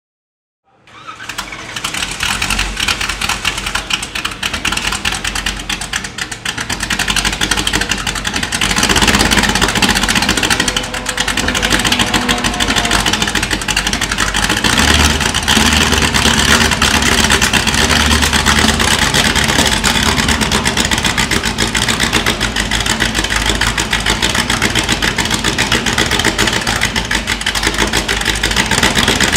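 Ford 351 Cleveland 5.8-litre V8 of a De Tomaso Pantera GT4 race car starting up about a second in, then running loud in the pit box. It gets louder about eight seconds in and runs on at a steady high level.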